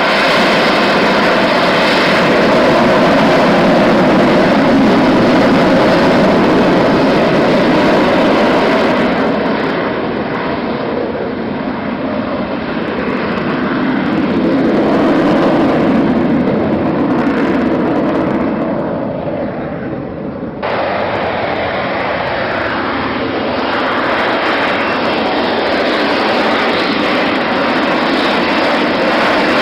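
Aircraft engine noise from a display aircraft flying past, loud and continuous, with its tone sweeping as it moves overhead. The sound changes abruptly about two-thirds of the way through.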